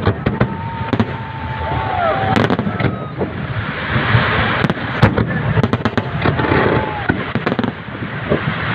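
A fireworks salute: many sharp bangs and crackling pops in quick irregular succession over a dense rumbling din, with crowd voices underneath.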